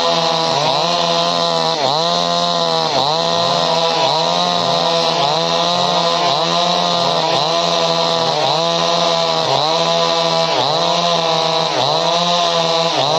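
Two-stroke chainsaw running at high revs, its pitch dipping and recovering about once a second as the engine is loaded and released.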